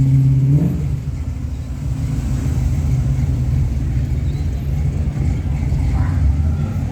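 Car engine rumbling at low revs as a show car drives past, with a short rise in revs under a second in, then a steady low rumble.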